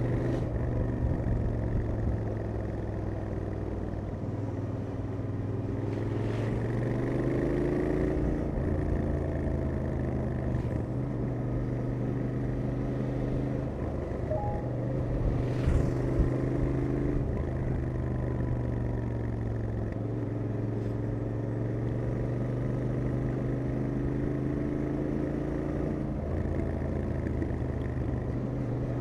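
Royal Enfield Interceptor 650's 648 cc parallel-twin running on stock exhaust while riding. Its pitch climbs slowly, then drops back in steps a few times.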